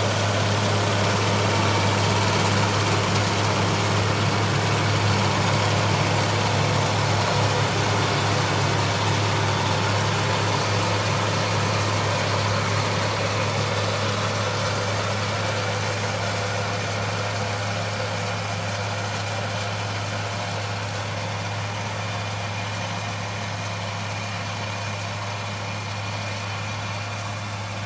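Farm machine's engine running steadily with a low, even hum, gradually getting quieter.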